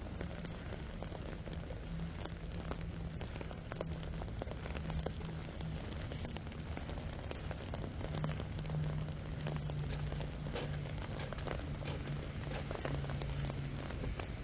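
Steady rain falling, with many individual drops ticking on an umbrella overhead. A low steady hum runs underneath and drops slightly in pitch about eight seconds in.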